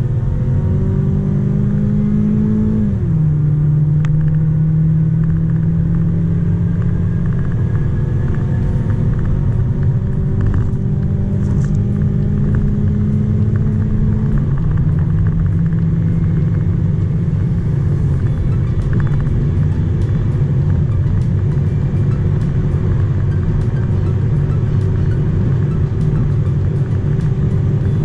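Mazda 3 Sedan's 2.0-litre four-cylinder engine pulling hard at high speed under heavy road and wind noise. About three seconds in the pitch drops sharply as the six-speed automatic upshifts. The pitch then climbs slowly again and levels off about halfway through, holding steady as the car nears its top speed.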